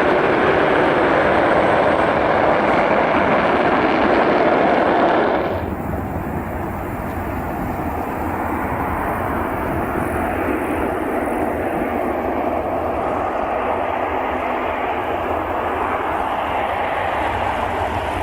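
Jet roar of a Tupolev Tu-160 bomber's four NK-32 afterburning turbofans at takeoff power. About five seconds in, the sound drops abruptly to a duller, lower rumble that carries on steadily.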